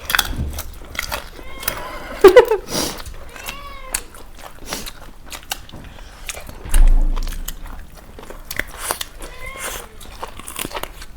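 A cat meowing a few times in short calls that rise and fall, over sharp eating clicks and crunches. There is a loud low thump about seven seconds in.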